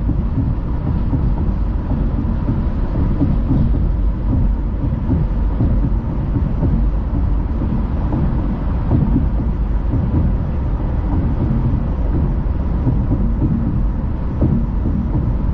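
Car driving along the road, a steady low rumble of tyre and road noise.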